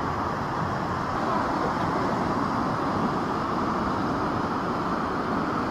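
Waterfall roaring: a steady, even rush of falling water, with no rise or fall in level.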